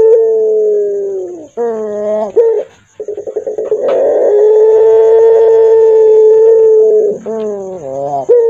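Puter pelung dove cooing with a hoarse voice: two long coos held on one pitch, each sagging at its end and followed by a few short, bending notes.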